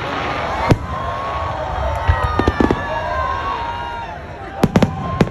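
Fireworks going off: a single sharp bang under a second in, then clusters of quick cracks around two and a half seconds and again near the end.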